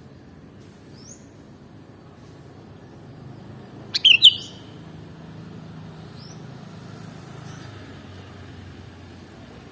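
Sooty-headed bulbul (kutilang) calling: a loud, quick phrase of a few notes about four seconds in, with faint short rising chirps before and after.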